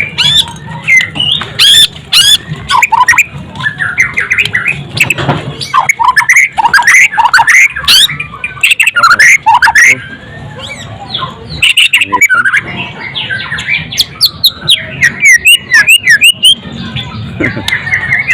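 White-rumped shama (murai batu) singing loudly: a rapid, varied run of sweeping whistled notes and harsh chattering phrases, broken by brief pauses. Near the end it goes into a fast, evenly repeated series of notes.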